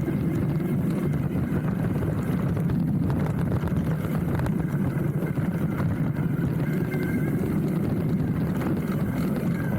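Hardtail mountain bike riding down a dirt trail, heard from a handlebar-mounted camera: a steady rumble of tyres rolling over the ground, with small rattles and clicks from the bike.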